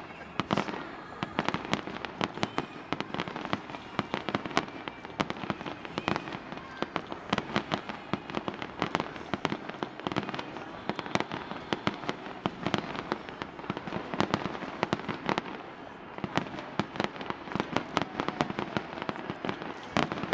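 Bonfire-night fireworks going off without a break: a dense run of sharp bangs and crackling pops, several a second, over a steady hiss of distant explosions.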